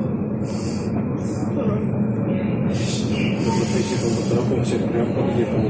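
Passenger train running steadily, heard from inside the carriage as a continuous low rumble.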